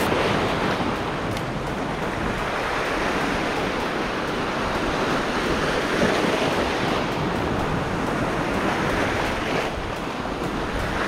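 Small surf washing and foaming over a rocky shoreline, a steady rush of water.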